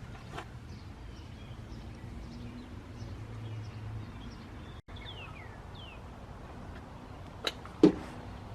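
Outdoor ambience with small birds chirping in short, falling notes, and two sharp knocks near the end, the second the loudest.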